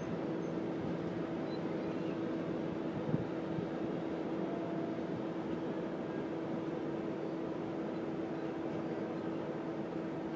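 Intermodal container freight train's wagons rolling past on the rails: a steady rolling rumble with a constant hum, and one brief knock about three seconds in.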